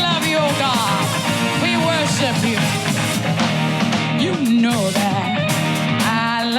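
Live church worship band playing, with drums keeping a steady beat, guitar, and a voice singing over it.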